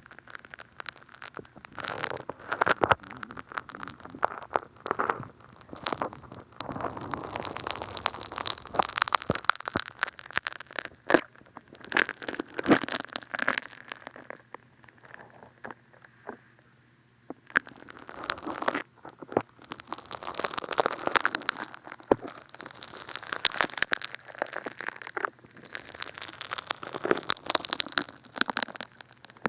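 Funny Foam soap foam squished and crackling on the ear of a binaural dummy-head microphone: bursts of dense crackling and popping with short pauses, the longest about halfway through.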